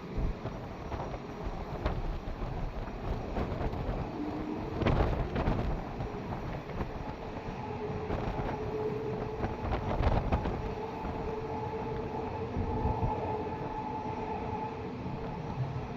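Airbus A340-600 jet engines running with a steady rumble, mixed with wind buffeting on the microphone and scattered thumps. A steady hum comes in about halfway through.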